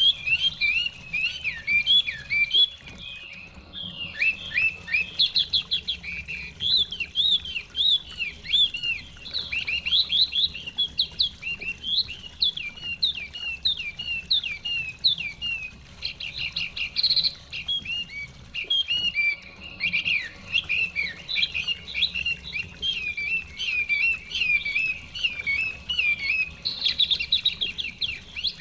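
Songbirds chirping and singing in a dense, continuous chorus of short, rapid, overlapping notes.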